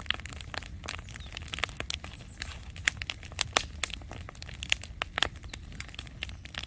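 Firewood campfire burning hot, the logs crackling with many irregular sharp pops over a steady low rumble.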